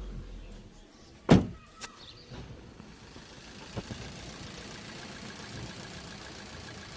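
Maruti Swift Dzire engine running on CNG, its revs falling away in the first second. A loud single thump follows about a second and a half in, then a smaller knock and a click, over a faint steady hiss.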